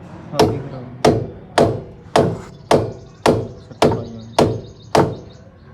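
Hammer blows on metal during suspension work: nine steady strikes, about two a second, each with a short ring.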